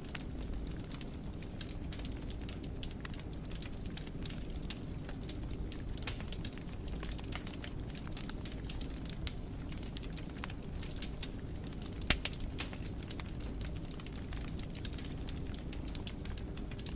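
Fire crackling in a fireplace: a steady low rumble of flames with frequent small snaps, and one sharper pop about twelve seconds in.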